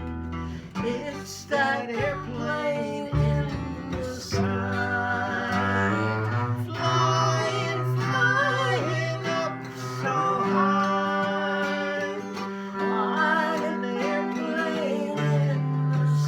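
Instrumental break on double bass and acoustic guitar, the bass bowed in long held low notes.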